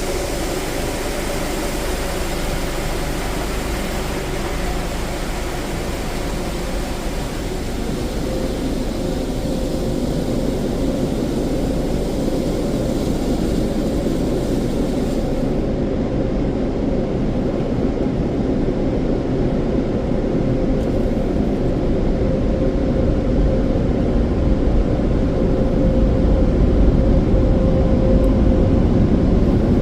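Car wash dryer blowers running with a steady air roar and a held hum, slowly growing louder; the high hiss drops away about halfway through.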